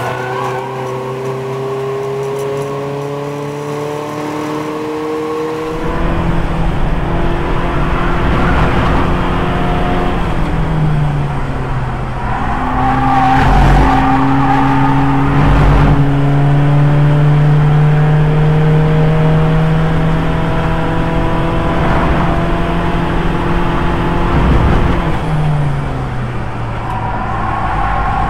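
Onboard sound of an Audi TT race car's 2.0 TDI diesel engine under load on track. Its pitch climbs slowly as it pulls, then drops back off the throttle, over and over. It gets louder about six seconds in.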